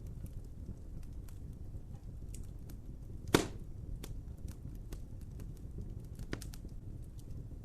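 Wood fire burning with a low rumble and scattered crackles, and one loud sharp pop about three seconds in and a smaller one near six seconds.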